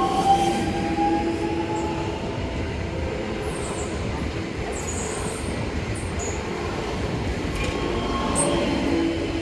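Passenger train running over the station tracks, with a steady rumble and thin wheel squeal from the rails near the start and again near the end. A few short, sharp high clicks come in the middle.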